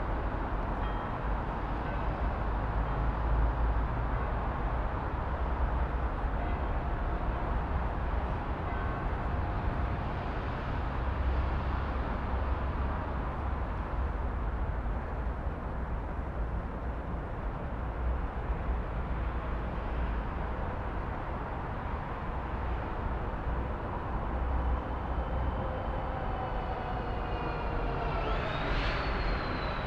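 City traffic ambience: a steady rumble of road traffic. Near the end a high whine falls in pitch as something passes.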